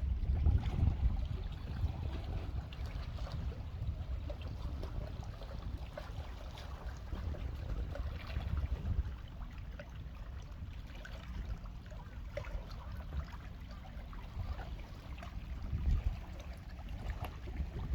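Wind rumbling on the microphone over faint seaside water sounds, with scattered small clicks.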